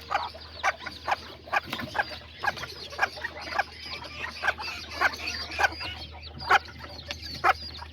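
Kikiriki bantam hen clucking now and then among a brood of chicks peeping: many short, high calls over a steady low hum.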